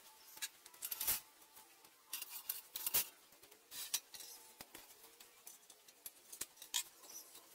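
Steel parts and tools being handled at a workbench: irregular light clinks and scrapes, with louder knocks about one and three seconds in.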